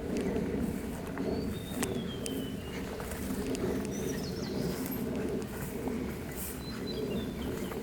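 Wild birds calling in woodland: thin, high calls, one sliding downward about two seconds in and a few short notes near the end, over a steady low rumble with occasional clicks.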